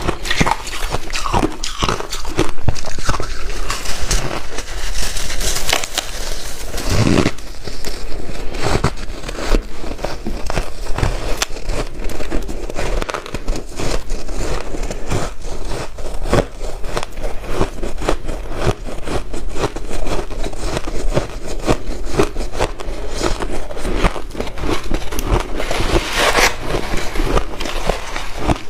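Close-up crunching of white ice being bitten and chewed: a dense, continuous run of crackly crunches and snaps.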